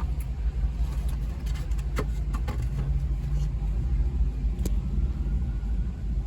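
A car's engine running with a steady low rumble, heard from inside the car in slow traffic, with a couple of short clicks about two seconds and near five seconds in.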